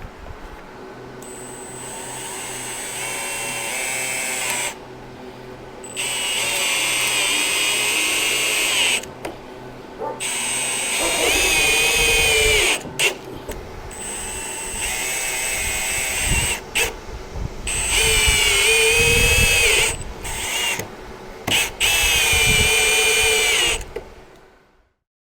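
Power drill running in about six runs of a few seconds each, its motor whine rising and falling in pitch with the trigger.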